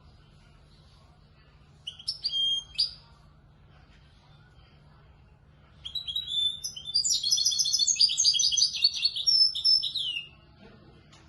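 Young European goldfinch singing in the Moroccan 'Marrakchi' style: a short chirped phrase about two seconds in, then a longer run of rapid, high twittering notes lasting about four seconds.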